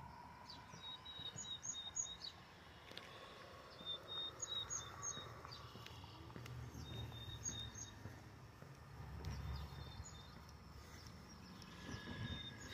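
A songbird singing faintly, a short phrase of high chirps repeated about every three seconds, over a low outdoor rumble.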